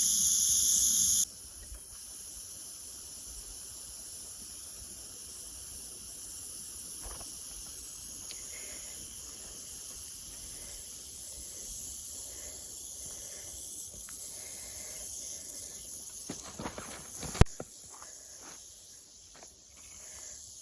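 Rattlesnake shaking its tail in a steady, high buzzing rattle that stops suddenly about a second in. After it comes a faint outdoor background of insects, with a few light knocks and one sharp click near the end.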